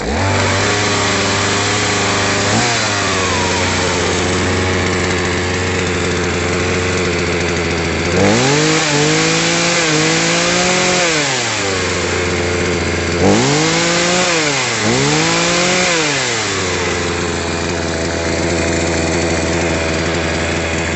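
Vitals BKZ 3717o 37 cc two-stroke chainsaw running at idle. It is revved up twice, a third of the way in and again past the middle, each time climbing in pitch in two pushes before dropping back to idle. The owner says the saw has lost most of its compression and needs new piston rings.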